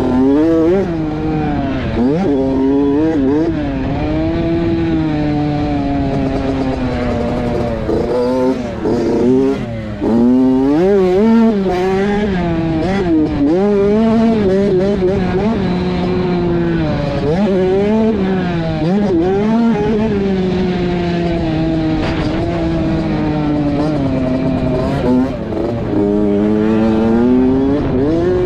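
Motocross dirt bike engine revving up and down, its pitch climbing and dropping again and again as the throttle is worked around the track.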